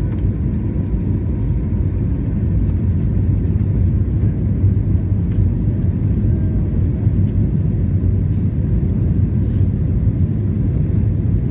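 Steady low rumble of an Airbus A321's engines and rushing air heard inside the cabin as the jet descends to land.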